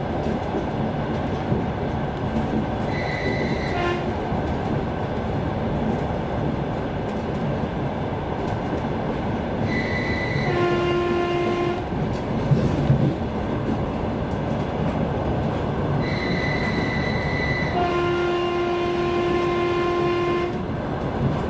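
Steady running rumble of an electric commuter train heard from inside the carriage, with horn signals over it: a short high toot about three seconds in, then twice a high note followed by a lower, fuller horn note, the second time with the low note held for about three seconds near the end.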